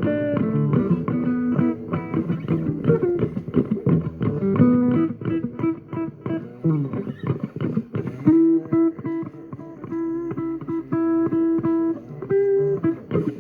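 Music: an instrumental guitar passage of plucked notes over a bass line, with no singing.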